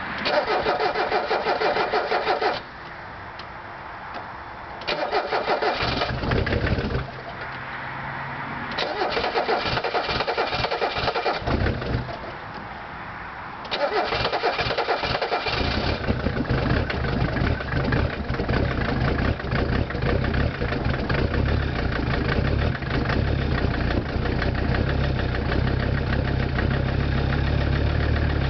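1985 Mercedes 300SD five-cylinder turbo diesel cold-cranked with no glow plugs: four bursts of starter cranking with pauses between, the engine catching on the fourth about sixteen seconds in and then idling steadily.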